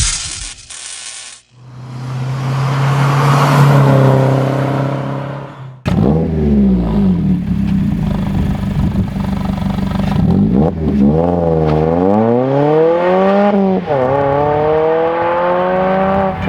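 2016+ Mazda MX-5 Miata four-cylinder engine through a CorkSport catback exhaust. A steady exhaust note swells and fades, then after a cut the car accelerates, its pitch climbing and dropping sharply twice at gear changes.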